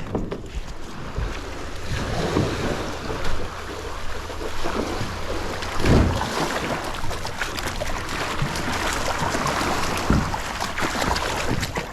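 Wind buffeting the microphone over water lapping at the shore, with a few dull thumps, the loudest about six seconds in.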